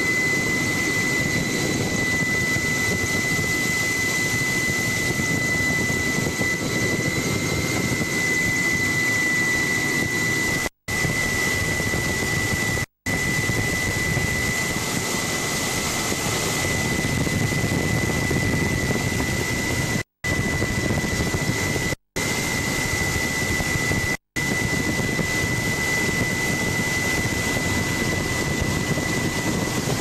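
Helicopter noise heard from on board: a dense, steady drone of engine and rotors with one constant high whine over it, broken by about five brief dropouts to silence.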